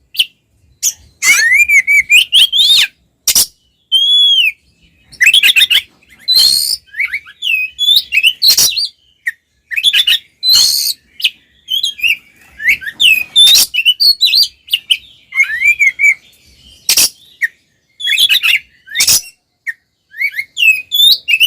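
Oriental magpie-robin (kacer) singing loudly in full voice: short, varied phrases of clear whistled notes that bend up and down, mixed with harsh, scratchy calls, broken by brief pauses.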